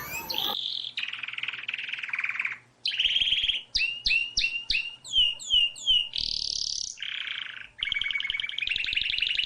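Bird calls: a string of buzzy, chattering trills, with a run of short descending whistles near the middle. The calls come in separate stretches that start and stop abruptly, with brief silent gaps between them.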